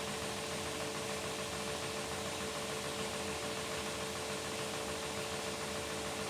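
Beko WTK104121W washing machine running during a delicates cycle: a steady mechanical hum with a constant whine and an even hiss.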